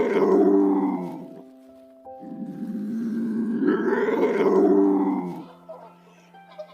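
A big cat roaring twice, each roar long and deep, the second lasting about three seconds, over steady background music.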